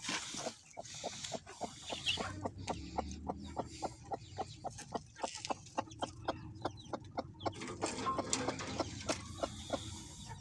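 Broody hen clucking in a steady run of short, evenly spaced clucks, about four a second.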